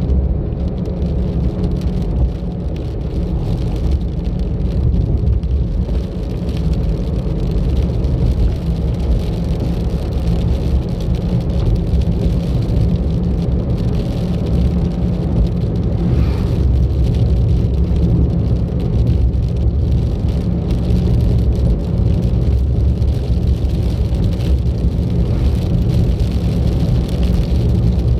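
Car driving along a road: a steady low rumble of engine and tyre road noise.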